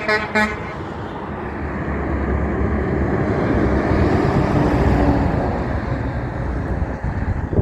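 A heavy truck passes on the highway: its engine and tyre noise swell to a peak about halfway through, then fade away. Two short pitched toots come right at the start.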